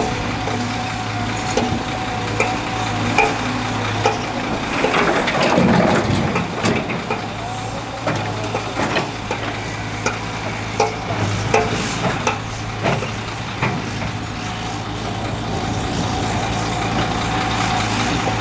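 Power trowel's engine running steadily, with scattered clacks and knocks and a louder, rougher stretch about five seconds in.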